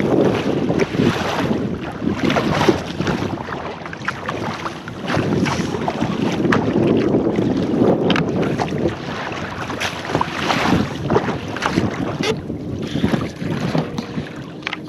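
Water splashing and sloshing around a kayak on ocean swell, with wind buffeting the microphone.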